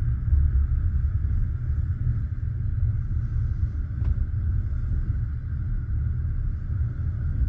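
Passenger railway carriage running along the track, heard from inside the car: a steady low rumble of wheels and bogies, with one faint click about four seconds in.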